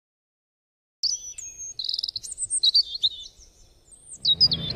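Small birds chirping: a string of short, high whistled calls with one quick trill, starting about a second in after silence. More chirps follow after a brief lull near the end.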